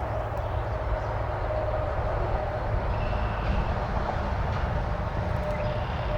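Honeybees buzzing around an opened hive, a steady drone with a wavering hum, from a colony disturbed by the inspection. A low rumble sits underneath throughout.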